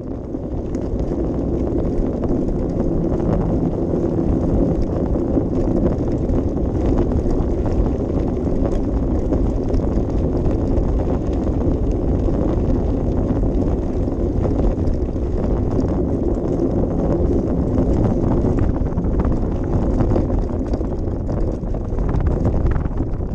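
Steady low rumble of wind buffeting the camera microphone, with scattered light clicks and rattles.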